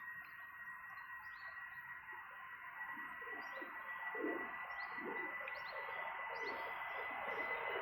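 Distant jet engines of a British Airways Airbus A319 on its takeoff run, a steady whine that grows gradually louder, with small birds chirping repeatedly over it.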